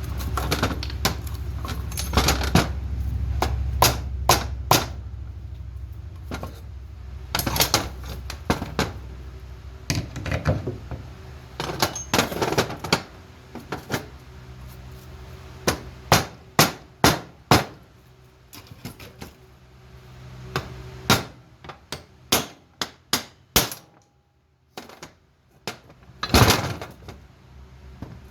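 Irregular sharp metal knocks and clanks of tools and parts on a blacksmith's vise, some in quick runs of three or four strikes. A low hum underneath fades out about five seconds in.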